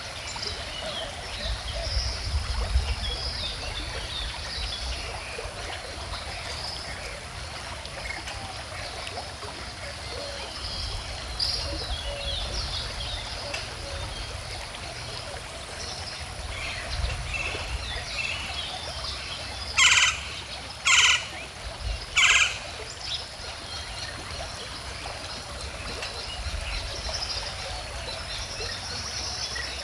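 A stream running and trickling steadily, with small birds chirping and singing throughout. About twenty seconds in, three loud, short calls come about a second apart.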